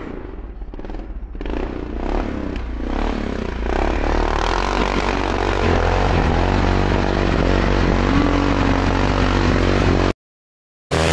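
ATV engine revving up over the first few seconds, then running steadily at speed under a broad rushing noise. The sound cuts out completely for under a second near the end.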